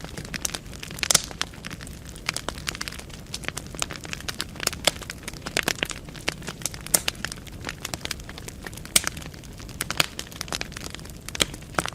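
Wood fire burning in a fireplace: burning logs crackling and popping irregularly, with a few louder snaps, over a low steady rumble of the flames.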